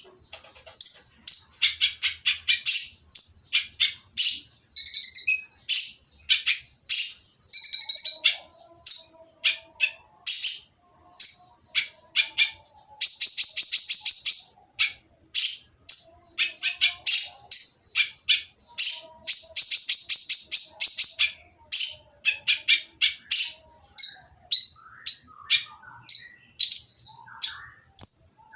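Kolibri ninja sunbird calling in a rough, noisy string of rapid high chirps, with two long fast trills in the middle and sparser notes near the end. This is a lure (pancingan) recording meant to provoke other kolibri ninja into answering and singing.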